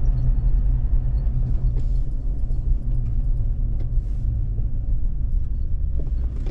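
Steady low rumble of a car driving on a tarmac road: engine and tyre noise heard from inside the cabin.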